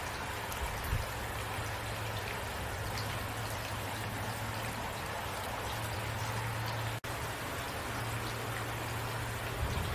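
Steady rain sound with scattered drops over a low, even rumble. It cuts out for an instant about seven seconds in.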